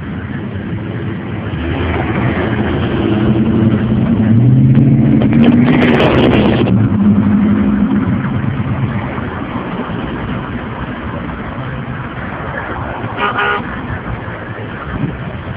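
A motor vehicle passes by, its engine getting louder to a peak about five to six seconds in and then fading away. Near the end there is a short horn toot.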